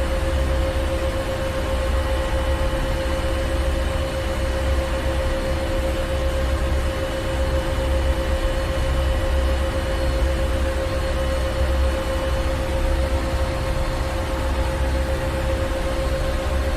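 Ship engine room ambience: a steady low engine rumble with a constant machinery hum and an even hiss of running equipment, unchanging throughout.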